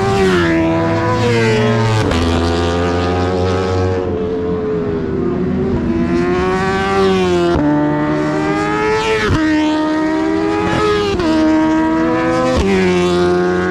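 Several 1000 cc superbikes racing at full throttle. Their engine notes climb in pitch and then drop sharply at each upshift, about three times, with the engines overlapping one another.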